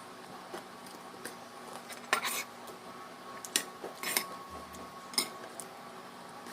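Cutlery clinking and scraping against a plate during a meal, a few separate sharp clinks spread over several seconds.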